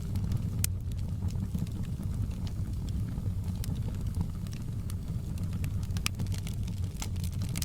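Wood fire crackling in a fireplace: a steady low rumble of burning under irregular sharp pops and crackles, with two louder pops, one about half a second in and one about six seconds in.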